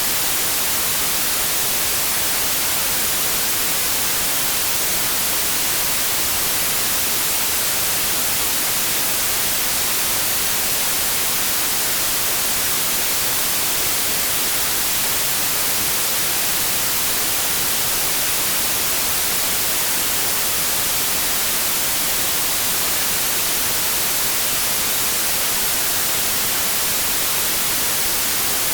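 Steady, unbroken white noise: an even static hiss that is strongest in the high frequencies.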